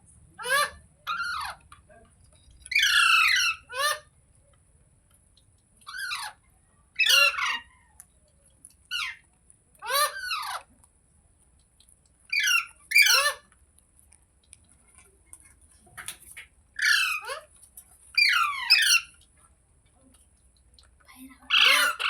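Rose-ringed (Indian ringneck) parakeet giving loud, harsh squawking calls in short bursts, many falling in pitch, with brief pauses between them.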